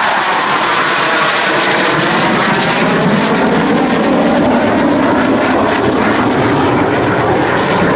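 Dassault Super Étendard jets flying past with the loud, continuous noise of their SNECMA Atar 8K-50 turbojets, the tone sweeping slowly downward as they pass.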